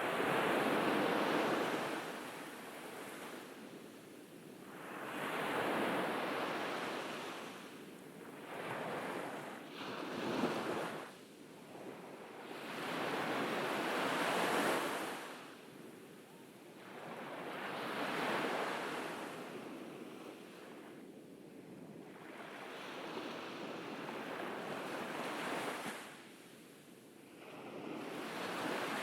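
Ocean waves breaking on a beach, the surf rising and falling in surges every few seconds, one sharper break about ten seconds in.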